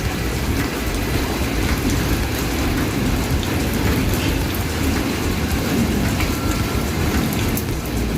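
Rain pouring steadily, an even hiss of rain falling on surfaces.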